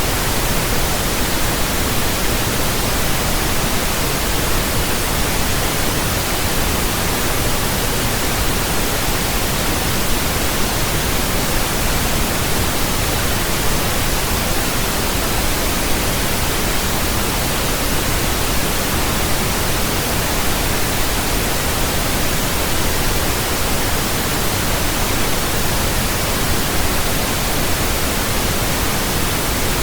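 Steady synthetic pink noise: an even, unchanging hiss with a low rumble beneath it.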